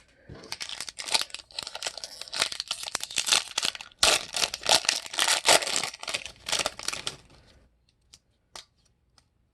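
Foil trading-card pack wrapper being torn open and crinkled by hand, a dense crackling for about seven seconds with a short break midway, then a few faint ticks.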